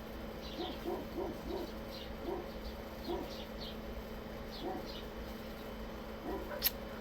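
Birds calling faintly in short, scattered chirps, over a steady low hum, with one sharp click near the end.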